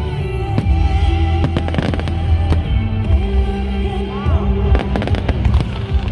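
Fireworks going off in a run of sharp bangs, thickest in the first two seconds and again about five seconds in, over loud music from the display's sound system.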